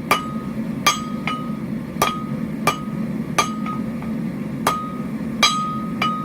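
Hammer blows on hot steel over an anvil, about one every 0.7 seconds, with a few lighter taps between, each strike leaving a short metallic ring. The steel is being drawn out into a four-sided tapered point, the tip of a forged leaf. A steady low hum runs underneath.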